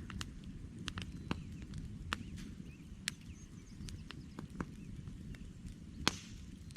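Wood campfire crackling: irregular sharp pops and snaps from the burning logs over a steady low rumble of the flames, with one louder pop about six seconds in.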